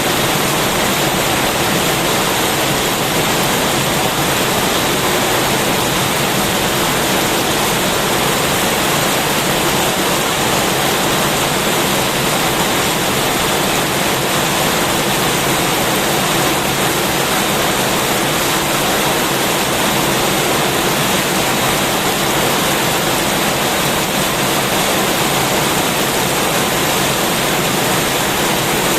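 Heavy rain pouring steadily, a dense even hiss with no breaks or distinct drops.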